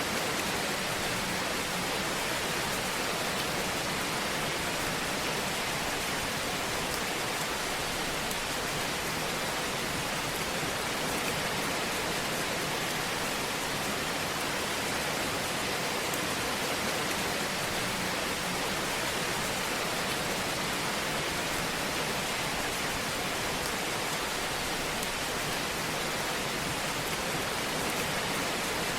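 Wood fire in a fireplace: a steady hiss with small, faint crackles scattered through it.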